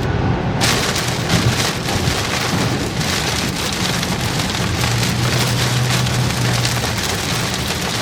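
Heavy rain pelting the roof and windshield of a moving car, heard from inside the cabin, over a low steady engine and road drone.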